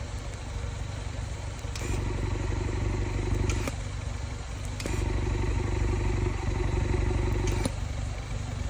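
Exhaust of a BMW 118i with a valved rear silencer and resonator delete, the engine running and its revs raised and held in about three stretches between lower running.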